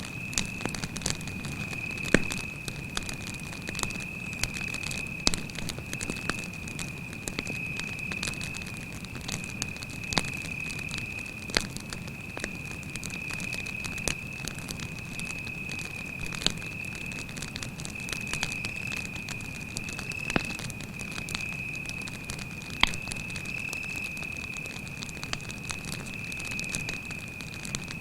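Wood campfire crackling and popping, with a few sharper pops, under a cricket's continuous high-pitched chirring trill.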